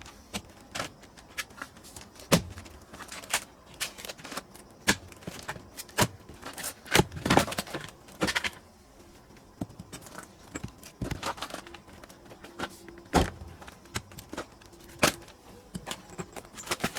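Irregular sharp knocks and thuds from splitting pine firewood by hand, a dozen or so of varying loudness, with a short cluster of clattering knocks about halfway through.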